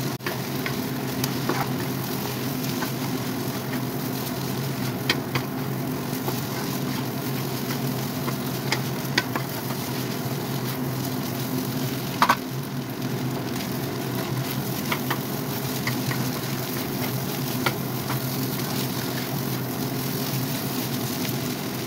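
Fried rice sizzling in a wok as it is stir-fried with a spatula, with scattered clicks and scrapes of the spatula against the pan, the sharpest about twelve seconds in. A steady low hum runs underneath.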